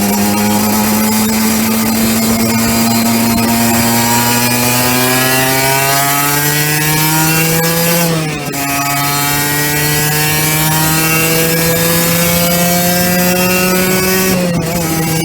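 Aprilia RS125's 125cc single-cylinder two-stroke engine running under load, its buzzing pitch slowly climbing. The pitch dips briefly twice, about eight and fourteen and a half seconds in, then climbs again.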